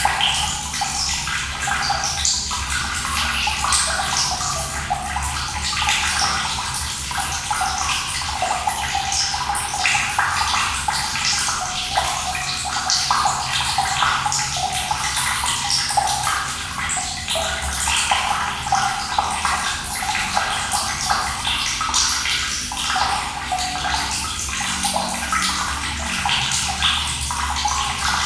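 Running water pouring and splashing steadily, full of small splashy spatters, with a low steady rumble underneath.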